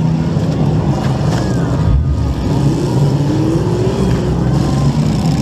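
Compact demolition-derby car's engine idling loudly and steadily with the car stationary. Another engine rises in pitch about halfway through.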